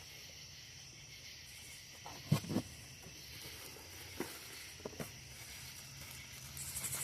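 A few knocks and rustles of parts and packaging being handled while a lawn tool kit is unpacked: a short cluster of knocks a little over two seconds in, then three sharper single taps. A steady high hiss runs underneath.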